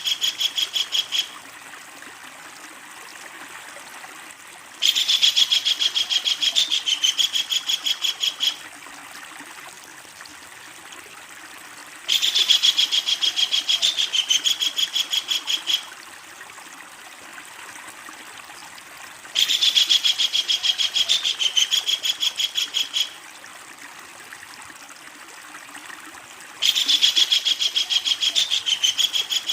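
Kingfisher giving its long rattling call, a fast run of sharp notes, about seven a second for some three and a half seconds, repeated about every seven seconds, over a faint steady hiss.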